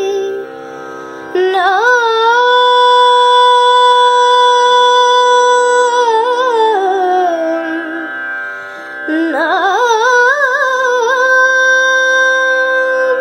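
Devotional bhajan music: a single melodic voice stretches a line into long held notes, gliding and ornamented between them, over a steady drone accompaniment.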